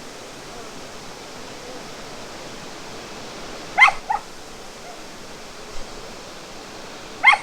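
A dog barking in short yips, two close together about four seconds in and another near the end, over the steady rush of a waterfall.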